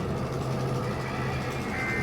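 A steady low mechanical rumble with a faint high whine above it.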